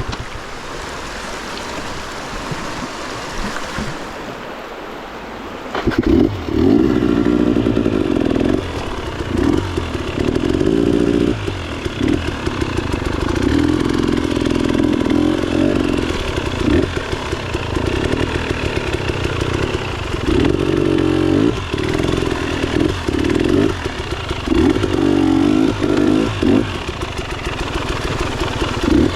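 Motorcycle engine running while riding, with wind noise. It is quieter for about the first six seconds, then gets louder and keeps swelling and dropping as the throttle opens and closes.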